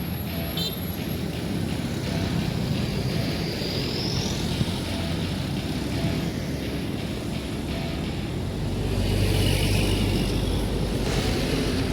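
Heavy truck engine running with road noise, growing louder about nine seconds in.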